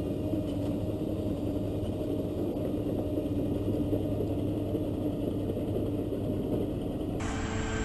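Heavy diesel engine running steadily under load, a low rumble with a held hum. About seven seconds in, it cuts abruptly to a different machine's engine with a steadier, higher whine.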